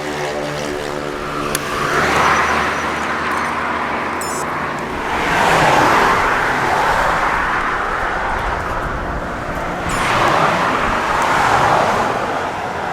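Road traffic: vehicles passing one after another, their tyre and engine noise swelling and fading about three times.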